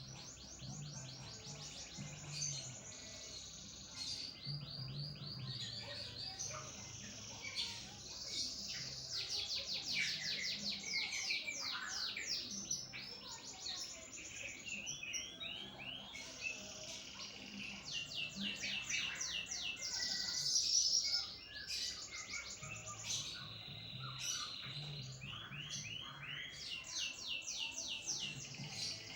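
Domestic canary singing a long, nonstop song of rapid trills and rolling series of repeated high notes, switching from one trill to the next without pause: the 'loper' style of a canary in full song.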